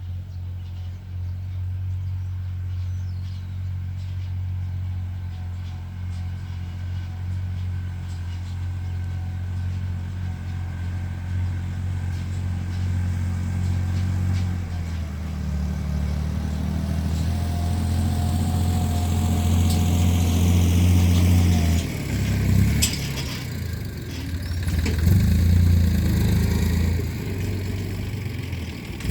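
Small Chinese tractor's engine running steadily under load while pulling a disc harrow. About halfway through it speeds up and gets louder, then rises and dips, with a few sharp clicks near the end.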